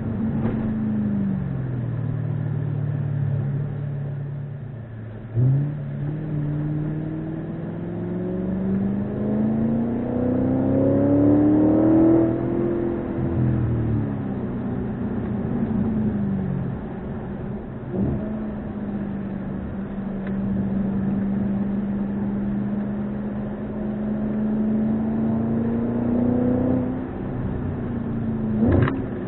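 Audi RS5's 4.2-litre V8 heard from inside the cabin through a JH Motorsports 2.75-inch valved cat-back exhaust. The engine note climbs for several seconds under acceleration, drops away, then holds steady while cruising. A few short ticks come through, the sharpest near the end.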